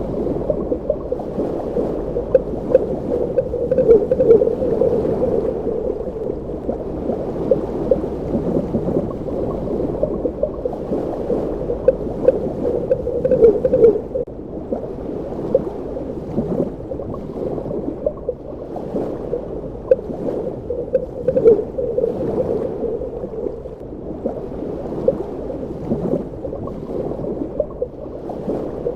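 Underwater ambience: a steady, low, muffled rush of water, dotted throughout with many small pops and crackles.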